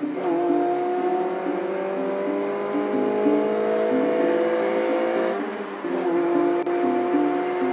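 Lotus Elise engine heard from inside the cabin, pulling hard with its pitch climbing steadily for about five seconds. Around five and a half seconds in it briefly drops away in a gear change, then picks up again higher and keeps pulling.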